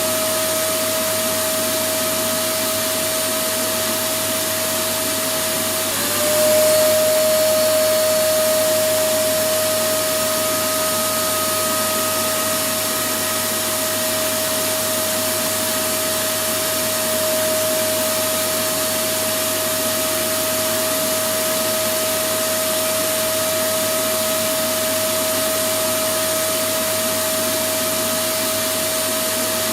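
Electric vacuum cleaner running steadily: an even rushing noise with a constant motor whine. About six seconds in, the whine dips in pitch for a moment and the sound swells slightly louder before settling back.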